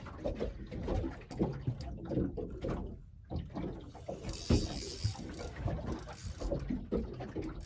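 Fishing reel being wound in, its gears and ratchet clicking irregularly, with a short burst of hiss about four seconds in.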